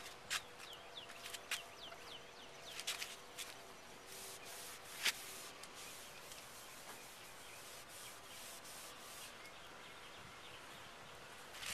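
Faint rubbing of toothpaste being worked over a plastic headlight lens to polish off the oxidation, with scattered sharp clicks, the loudest about five seconds in.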